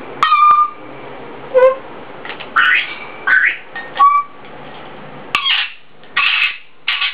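African grey parrot calling in a string of short bursts: a few clear whistles, one rising, in the first two seconds, then a run of harsher squawks about every half second to second.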